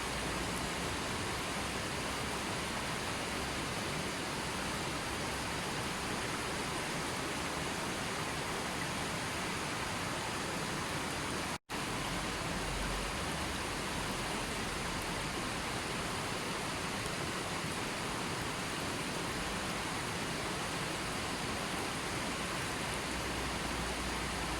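Steady, even hiss of rushing water, unchanging throughout, with a split-second dropout to silence a little before halfway, like a splice in a looped recording.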